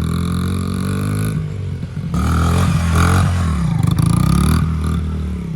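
An engine running and being revved: it grows louder about two seconds in, its pitch dipping and climbing, then settles back to a steadier run near the end.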